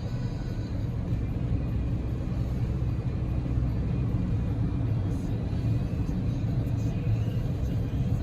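Cabin noise of a Daihatsu Move L150S with its 660 cc three-cylinder EF-VE engine driving at a steady speed: a constant low rumble of engine and road noise.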